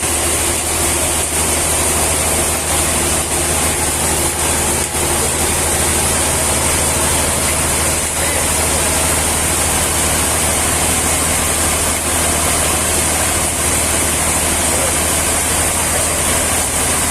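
An engine running steadily with a constant low hum and hiss, not changing in load.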